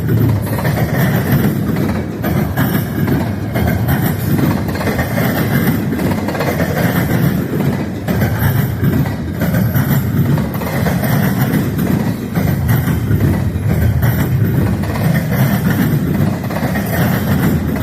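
Freight train rolling past, its cars making a steady rumble with rail clatter.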